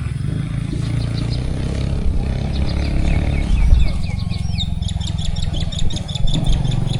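Small birds chirping in runs of short repeated notes, a lower run a few seconds in followed by a quicker, higher run, over a steady low rumble.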